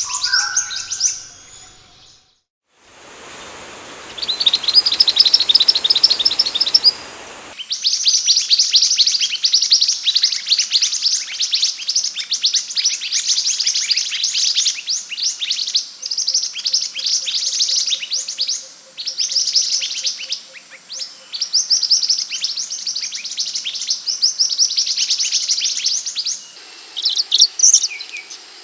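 Minivets (sepah hutan) calling in long, rapid runs of high, sweeping chirps that overlap into a dense twitter, with brief pauses between runs. For a few seconds near the start the chirps sit over a hiss.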